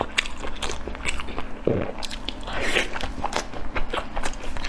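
Close-miked mouth sounds of someone eating: biting and chewing, a dense run of short crunchy and wet clicks, with one deeper, longer sound about one and a half seconds in.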